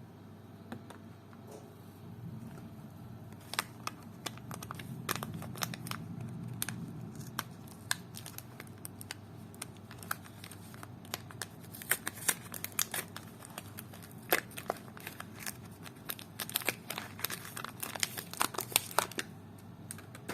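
Soap wrappers being crinkled and torn open by hand: a rapid run of sharp crackles and rustles that starts a few seconds in and is busiest in the second half.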